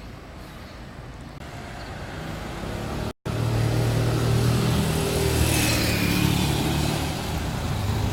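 A motor vehicle's engine running close by, growing louder over the first few seconds. After a brief break it carries on as a loud, steady low hum, then cuts off sharply at the end.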